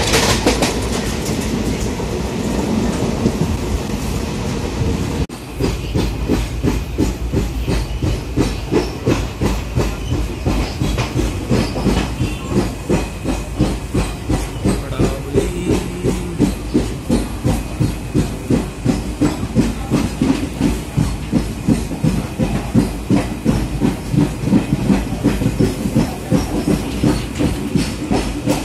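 Passenger train running on Indian Railways track, heard from a coach window: a steady rush of running noise and wind. About five seconds in it changes to a regular clickety-clack of the wheels over rail joints, about two clacks a second, over a low rumble.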